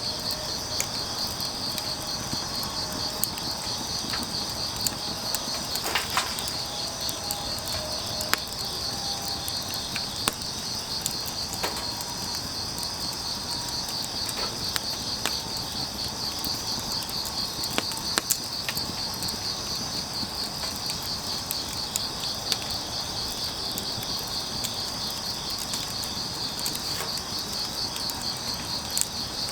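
Crickets chirping in a steady, fast-pulsing trill, with scattered sharp crackles and pops of burning firewood over a steady hiss.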